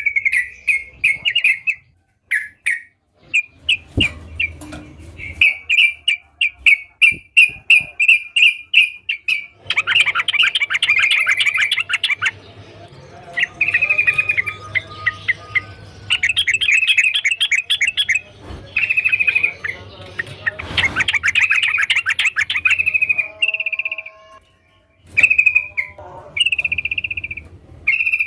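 Yellow-vented bulbul singing: repeated short bright chirps in phrases separated by brief pauses, at one point a quick run of about three notes a second, and between them dense bursts of rapid chattering notes.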